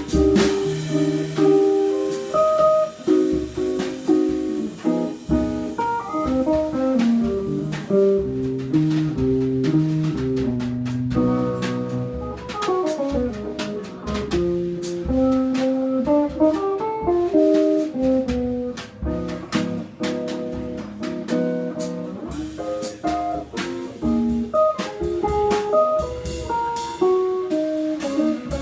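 Live small-group jazz: an electric guitar playing running melodic lines over a drum kit keeping time on cymbals and drums, with quick runs up and down the neck partway through.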